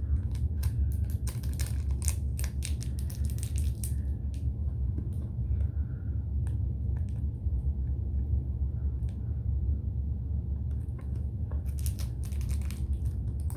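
Slime being worked by hand with glitter added: runs of crackling, crinkling clicks, thickest in the first few seconds and again near the end, over a steady low hum.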